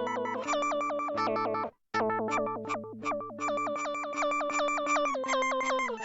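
Synthesizer playing a fast, repeating pattern of short plucked notes over held low notes, run through an Old Blood Noise Endeavors Pitch Fork+ pitch shifter under Expression Ramper control. The sound cuts out completely for a moment just under two seconds in, then the pattern resumes, with the held notes stepping down in pitch near the end.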